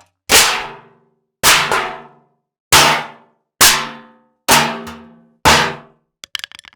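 Six separate clanging impacts, about one a second, each ringing out and dying away before the next. A few small clicks follow near the end.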